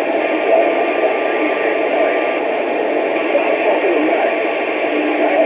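CB radio receiver hiss and static, with faint, garbled voices underneath. A thin steady whistle is heard briefly about a second in, and a lower hum starts near the end.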